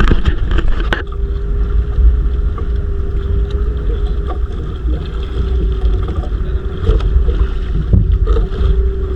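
Wind buffeting the microphone aboard a small outrigger fishing boat (bangka), over a steady low hum that sets in about a second in, with scattered light knocks.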